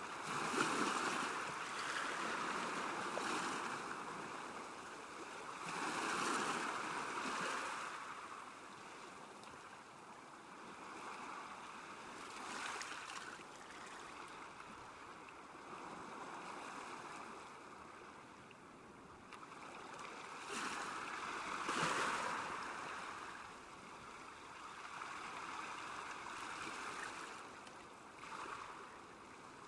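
Small waves lapping at a lakeshore: a steady wash of water that swells and fades every few seconds.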